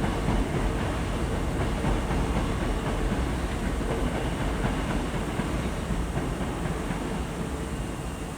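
Hankyu electric commuter train running out of the platform on steel rails, its sound slowly fading as it moves away.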